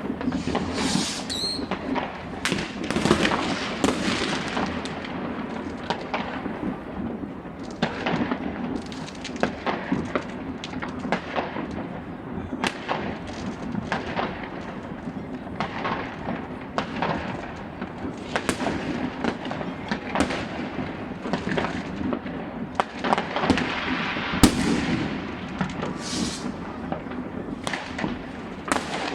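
Many fireworks and firecrackers going off at once, with dense, irregular bangs and pops one after another over a constant crackle. There is a brief high whistle about a second in.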